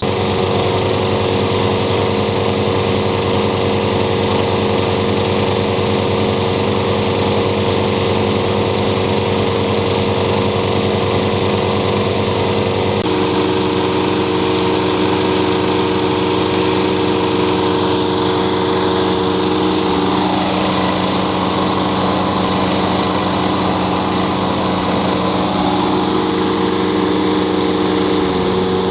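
Two walk-behind lawn mowers' small gasoline engines running steadily, left running to warm the oil before an oil change. The engine note shifts slightly about 13 seconds in.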